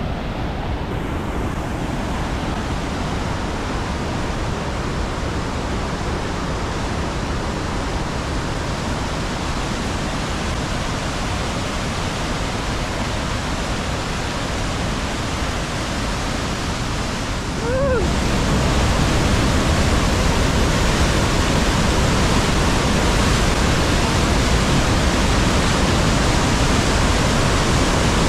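River Ure in spate rushing over the falls: a steady, loud hiss of white water, suddenly louder about eighteen seconds in.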